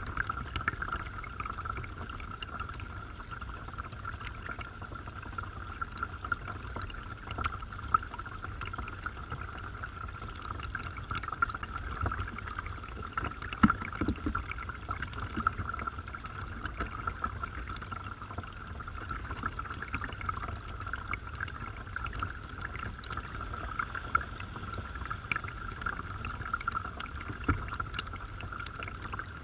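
Small garden waterfall splashing steadily into its pool, with sharper splashes every few seconds.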